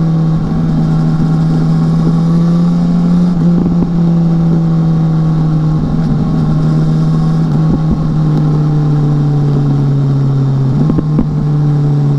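BMW S1000R's inline-four engine running under way at a steady, fairly high speed, its pitch easing slowly down with a few small steps.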